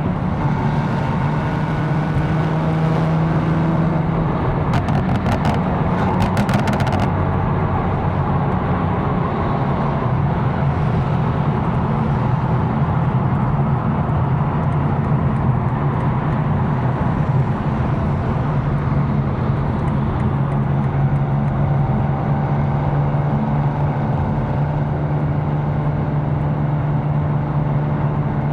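Tuned BMW M4's twin-turbo inline-six running at steady cruise over tyre and road noise. About five seconds in the engine note shifts and a quick run of sharp clicks sounds, before it settles back into a steady drone.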